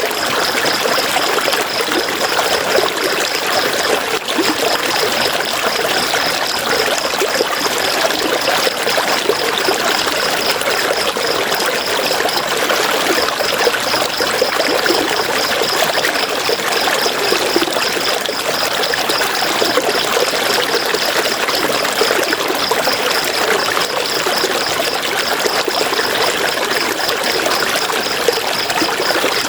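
River water flowing steadily over rocks with a constant rushing, trickling sound. A thin, high, rapidly pulsing tone runs above it, breaking off briefly twice.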